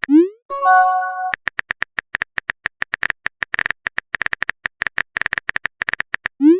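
Phone messaging sound effects: a short rising swoosh of a message being sent, then a chime of several tones for an incoming message about half a second in. After that comes a long run of rapid keyboard tapping clicks, and another rising swoosh right at the end.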